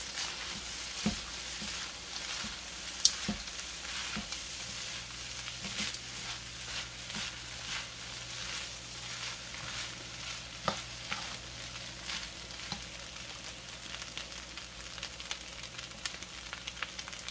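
Fried rice with frozen mixed vegetables sizzling in a large wok while it is stirred, the spatula scraping and clicking against the metal now and then.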